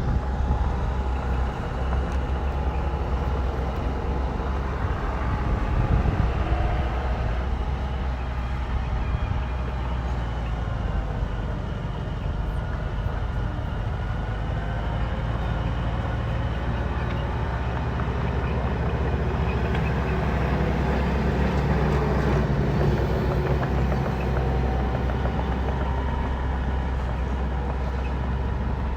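Heavy diesel earthmoving machine's engine running steadily under load.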